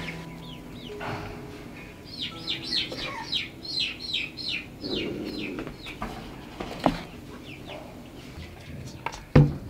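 Bird chirping, a quick run of short high notes that each fall in pitch. A sharp click comes about seven seconds in, and a louder knock comes near the end.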